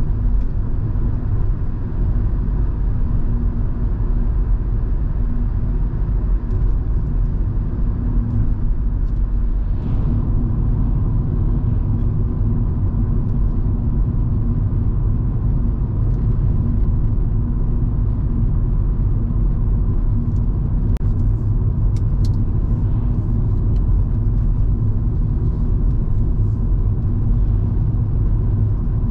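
Volvo V70 2.5T's turbocharged five-cylinder engine and tyre noise on the move, a steady drone with a brief dip about ten seconds in.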